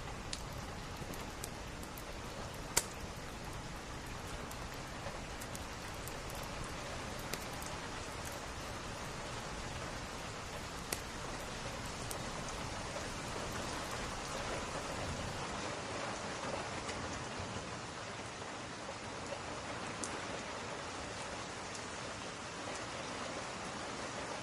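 Steady rain, an even hiss, with a few scattered sharp pops, the crackle of a wood fire, the clearest about three seconds in and another near the middle.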